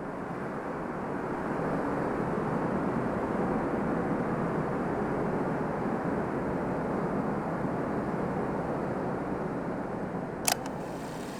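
Strong wind blowing steadily, a dense rushing noise that builds over the first couple of seconds and then holds. A single sharp click about ten seconds in.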